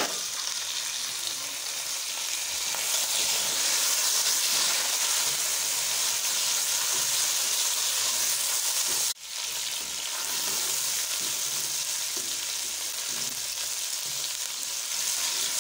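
Raw chicken pieces and sliced onions frying in hot oil in a nonstick pan, a steady sizzle as they are stirred with a spatula. The sound drops out for a moment about nine seconds in.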